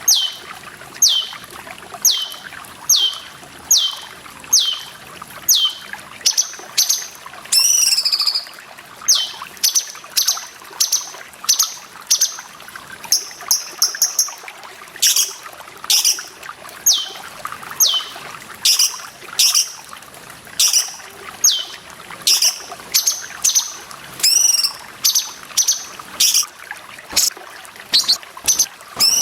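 Cucak cungkok bird calling over running water: a sharp, falling note repeated about once a second, with a few warbled notes mixed in.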